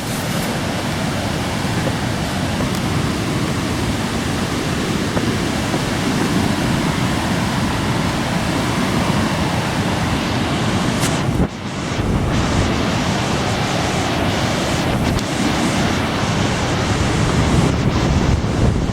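Loud, steady rush of falling water from a waterfall, with a brief dip about eleven and a half seconds in.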